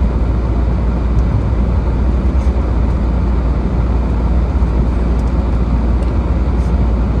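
Car driving on a snow-covered road, a steady low rumble of tyre and engine noise.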